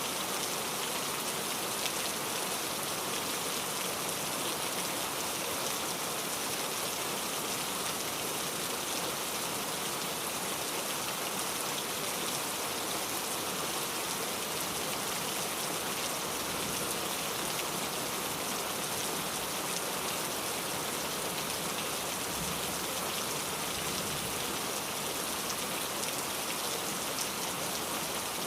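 Steady rain falling, many drops pattering on a surface in an even hiss without a break.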